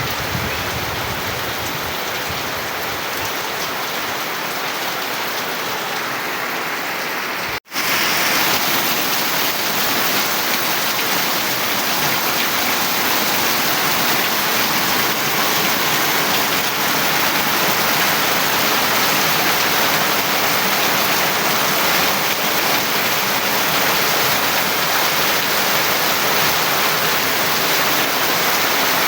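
Steady rain falling in an even hiss. There is a momentary break about seven and a half seconds in, after which the rain is slightly louder.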